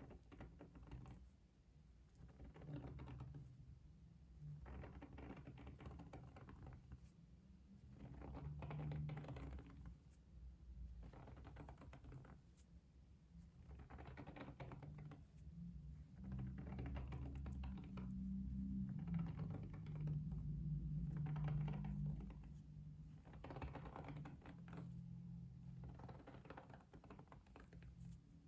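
Rapid light taps in about a dozen bursts of one to two seconds each, with short pauses between, over a faint low rumble.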